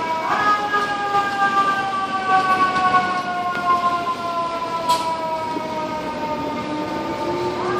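FDNY fire engine's siren wailing: the pitch jumps up just after the start, sinks slowly for several seconds, then jumps up again near the end, as the siren is pushed back up to speed each time.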